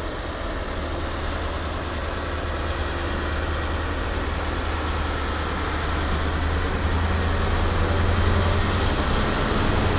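Class 43 diesel power cars of an InterCity 125 high-speed train departing, a steady low engine drone that grows gradually louder.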